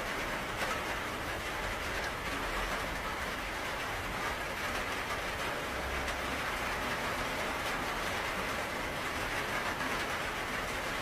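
Steady rainfall, an even hiss with scattered faint drop ticks and a low rumble underneath.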